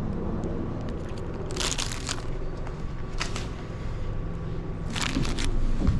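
Short crinkly, crunching noises from an ice cream being handled and eaten, in three bursts, over a steady low hum.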